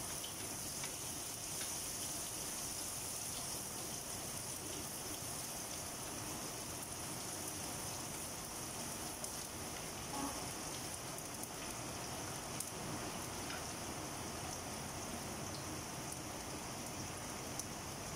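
Sliced onion and garlic sizzling steadily in hot oil in a steel wok over a gas burner, with a few faint knocks of a wooden spatula as they are stirred.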